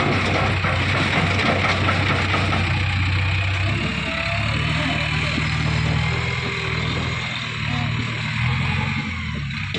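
Heavy diesel engine running steadily, its note changing about four seconds in.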